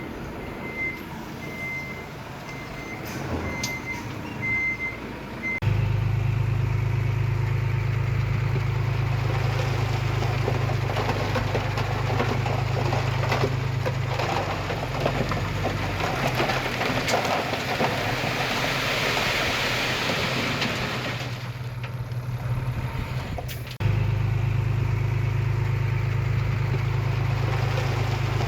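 Heavy diesel construction machinery: a reversing alarm beeps at a steady pace for the first five seconds, then a loud diesel engine running steadily cuts in. Around the middle a rushing noise swells and fades over the engine, and after a brief drop the engine resumes.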